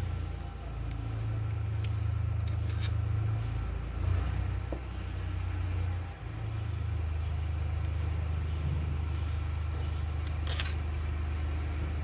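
Steady low hum with a few sharp metallic clinks of steel bolts and a wrench as the magnet cover bolts are taken out.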